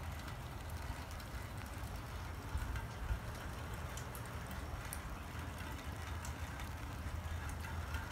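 Steady light rain falling, with scattered drops ticking sharply, over a low rumble.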